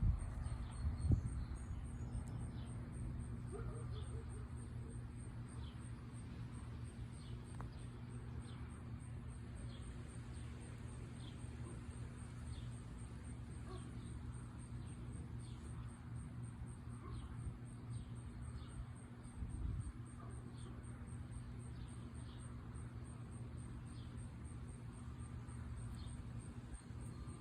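Small birds chirping every second or two over a steady low background rumble.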